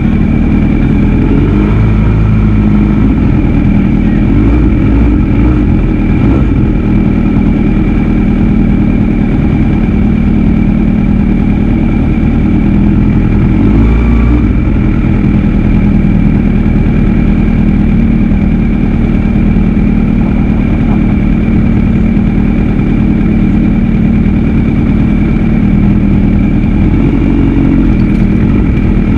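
Kawasaki ZX-6R 636's inline-four engine idling close to an on-board camera on the race grid, with other 600cc race bikes idling around it. The pitch holds steady, with a few small rises in revs.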